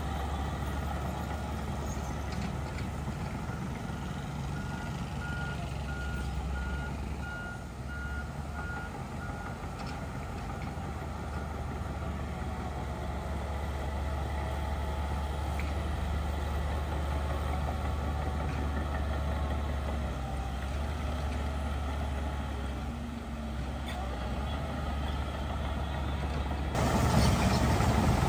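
Heavy diesel machinery running steadily, with a reversing alarm beeping at an even pace for about five seconds, starting about five seconds in. The engine sound gets suddenly louder near the end.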